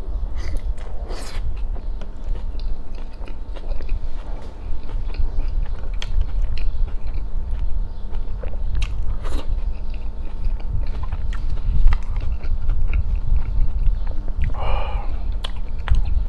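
Close-miked eating: a bite into a soft roti john bread roll packed with meat, egg and mozzarella, then steady wet chewing with lip smacks and small mouth clicks.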